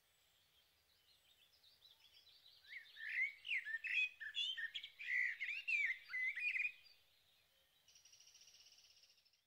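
Birdsong: a songbird's quick, varied chirping that starts faint and grows louder over the first few seconds, then a short, fast, buzzy trill near the end before the sound cuts off suddenly.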